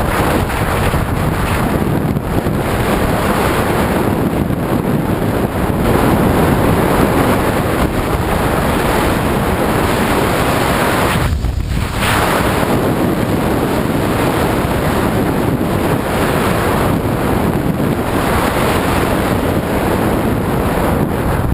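Loud, steady wind buffeting the microphone, easing briefly about eleven seconds in.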